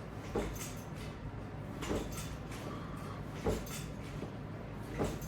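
Sit-ups done by pulling on resistance straps attached to a wall-mounted latch bar: a short swishing sound with each rep, about one every second and a half, over a steady low room hum.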